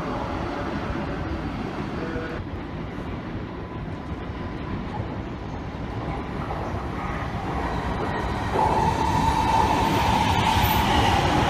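E2 series Shinkansen train running into a station platform, a low steady rumble. About eight and a half seconds in, a steady whine starts suddenly and becomes the loudest sound.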